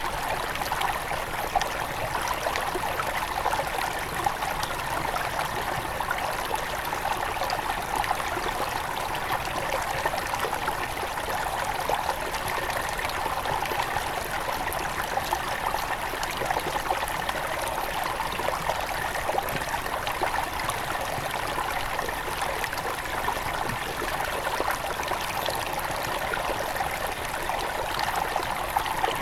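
Small forest river near its headwaters flowing steadily, a continuous rushing of water with fine trickling and splashing over the stones.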